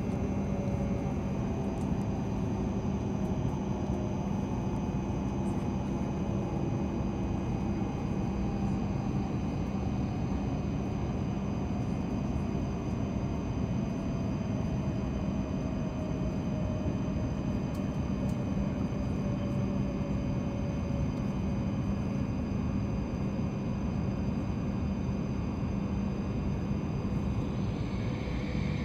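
Inside the cabin of an E7/W7-series Hokuriku Shinkansen train slowing into a station: a steady rumble and hum, with a whine that falls slowly in pitch as the train brakes.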